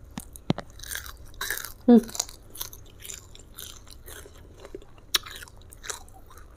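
Close-miked chewing of a mouthful of food eaten by hand: wet chewing with scattered small crunches and lip smacks. A short hum of the voice comes about two seconds in.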